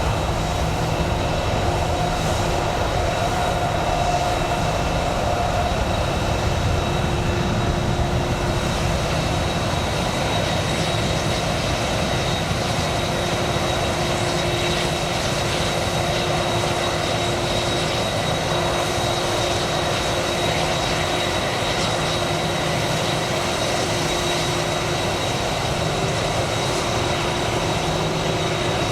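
Jet aircraft engines running steadily: a constant high whine and several steady tones over an even rumble.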